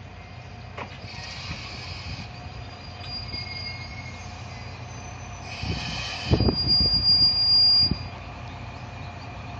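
Heavy vehicle running with a high steady squeal of brakes or wheels in the second half, two short hisses, and heavy low thumps under the squeal.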